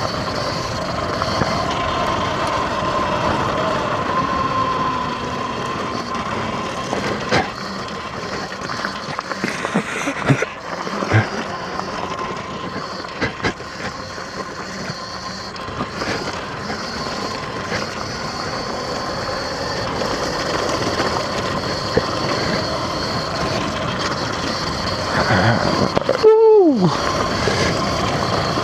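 X Pro dirt bike engine running steadily under way in second gear, with scattered clicks and knocks from loose gravel under the tyres. Near the end the engine note drops sharply in pitch.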